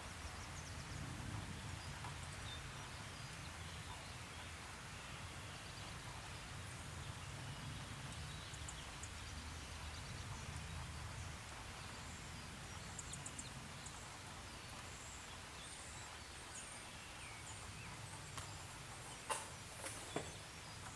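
Steady outdoor ambience: a low rumble under an even hiss, with faint, short, high bird chirps scattered through it and a few sharp clicks in the last two seconds.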